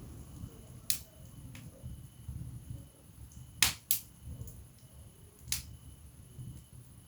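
Wood fire burning in a fireplace: a low flame rumble with sharp crackles and pops from the burning logs, the loudest two in quick succession a little past the middle.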